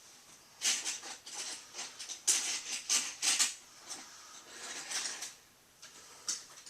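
Irregular scratchy rustling and scraping: a run of short, hissy bursts, densest in the middle.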